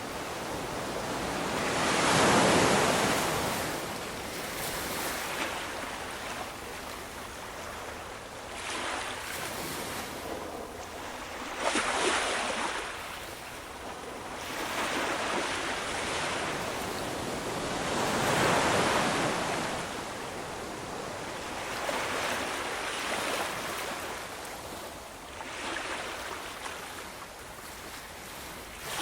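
Ocean waves washing onto the shore: a steady hiss that swells and ebbs with each wave every few seconds. The biggest surges come about two seconds in and again near the end of the second third, with a sharper crash about twelve seconds in.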